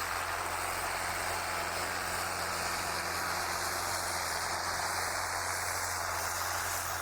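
Steady vehicle noise: an even rushing hiss with a low engine hum beneath it, unchanging throughout.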